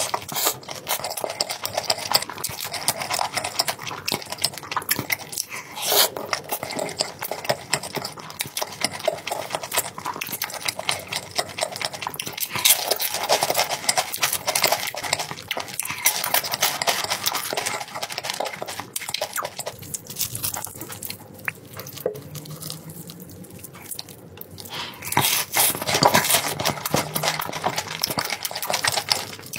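Chewing and crunching of crispy fried chicken, dense crackly bites and wet mouth sounds, with a quieter stretch about two-thirds of the way through.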